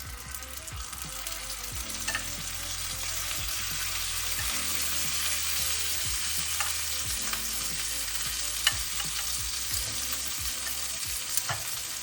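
Chicken pieces frying in hot oil with onions, garlic and chilli: the sizzling builds over the first few seconds, then holds steady. A few sharp clicks sound over it, the loudest about nine seconds in.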